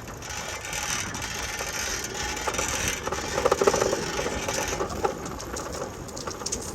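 Bicycle rattling and clicking as it is ridden, over a steady rushing noise.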